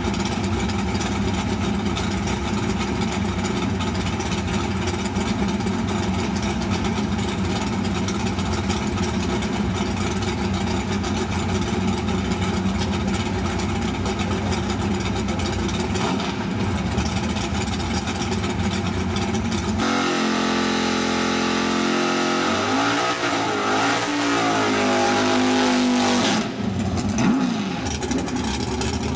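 Drag-prepped Buick GS V8 idling with a lumpy beat, then about twenty seconds in revved hard and held high, the revs swinging up and down for several seconds before cutting off sharply near the end.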